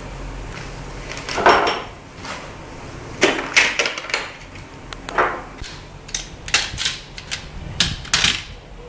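Metal tools and parts being handled on a workbench: irregular clinks and knocks.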